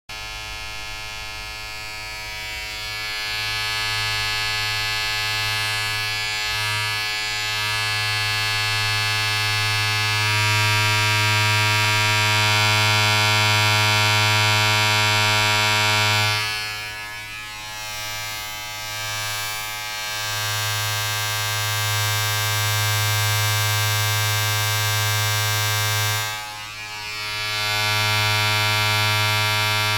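Steady electric motor buzz with a strong low hum and many overtones. It dips briefly in level twice, a little past halfway and near the end.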